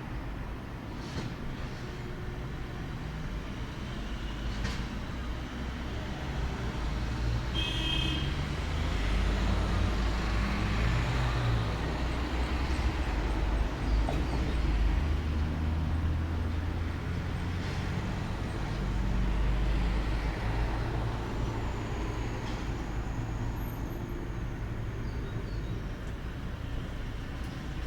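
Steady low rumble of road traffic, swelling twice, with a few faint ticks.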